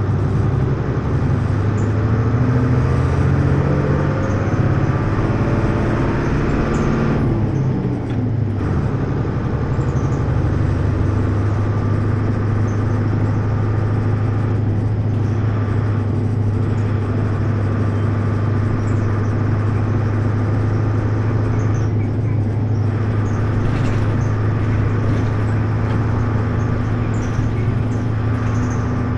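Hino U-HT2MLAA city bus running: the engine note climbs for about seven seconds, drops at about eight seconds, then holds a steady hum. The bus has a tendency toward abnormal noises, a sound the uploader likens to a sister bus near the end of its service life.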